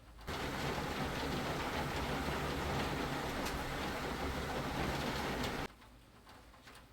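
Steady rain falling, a dense even hiss that starts suddenly and cuts off suddenly after about five seconds.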